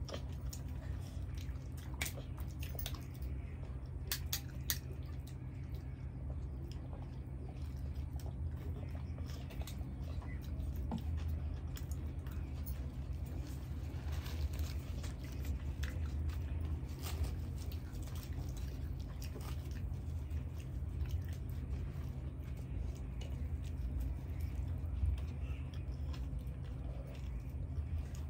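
Close-miked eating sounds: two people chewing and biting into bhature (deep-fried puffed bread) with chole, with scattered sharp crackly clicks and wet mouth sounds. A steady low hum runs underneath.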